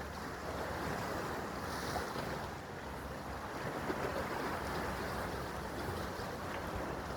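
Sea waves washing in a steady rush, with wind buffeting the microphone.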